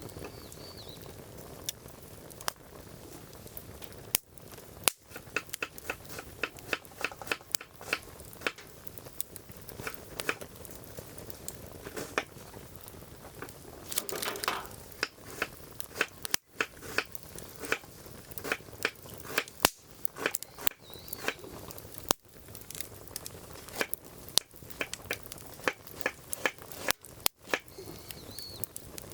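Firewood burning in a fire grill, crackling with irregular sharp pops and snaps over a low hiss, in denser runs a few times.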